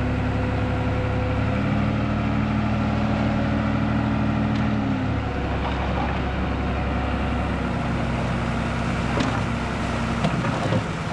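Heavy earthmoving machine's diesel engine running under varying load, its note stepping up about a second and a half in, easing off about five seconds in and building again near eight seconds. A few sharp knocks near the end.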